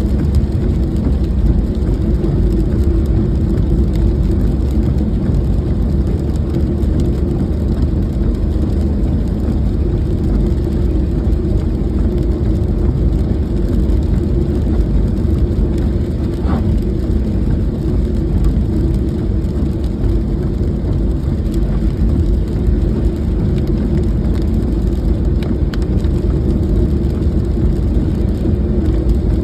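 Car on the move in the rain: a steady, unbroken low road rumble.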